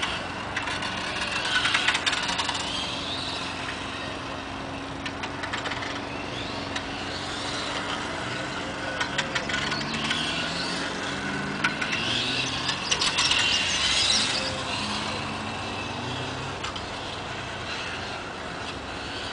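Brushless electric motor of a 1/8-scale RC motorcycle whining as it runs, its pitch rising and falling as it speeds up and slows, loudest about two seconds in and again around twelve to fourteen seconds in. Lower tones glide up and down beneath it, with scattered sharp clicks in the middle of the run.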